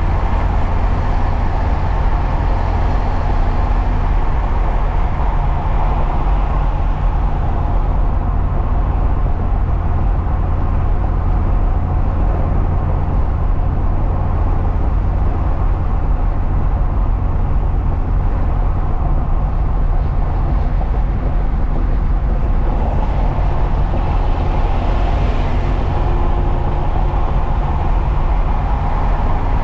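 Truck driving at steady speed, heard from inside the cab: a constant low engine and drivetrain rumble under tyre and road noise. The road hiss swells briefly about three-quarters of the way through.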